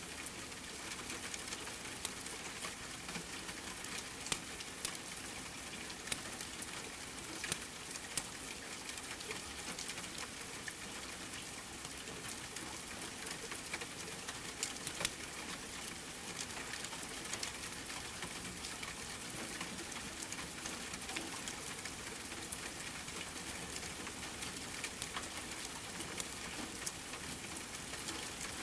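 Steady rain with a wood fire crackling, heard as scattered sharp pops and clicks over the even hiss.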